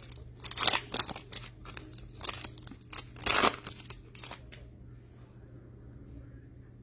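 Trading card packaging being crinkled and torn open: a run of sharp plastic crackles and rips, loudest a little past three seconds in. It stops about four and a half seconds in, leaving a faint steady hum.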